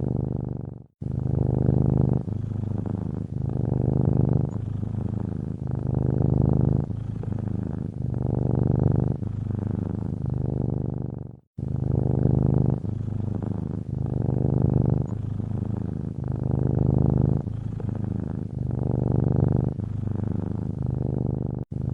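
Domestic cat purring steadily, the purr swelling and easing with each breath about every two seconds. It cuts off briefly to silence twice, about a second in and past the eleven-second mark.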